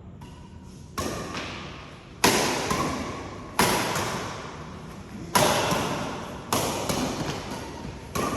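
Badminton rackets striking a shuttlecock in a rally, about six sharp hits spaced one to two seconds apart. Each hit trails off in the hall's echo.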